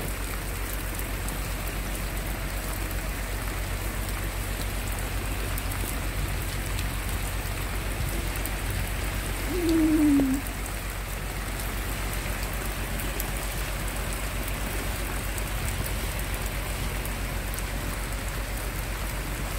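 Heavy rain falling steadily, a continuous even hiss of rain on leaves and ground. About halfway through, a short falling tone sounds over it for about a second.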